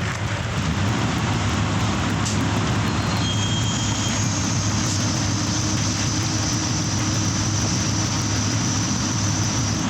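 An engine running steadily with a low drone, joined about three and a half seconds in by a thin, steady high whine.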